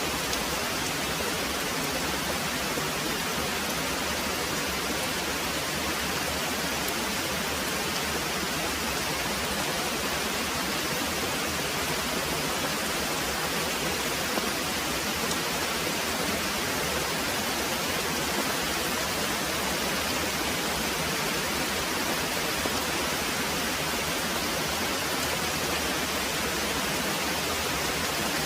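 Very heavy rain pouring steadily, a dense, even hiss with no thunder heard.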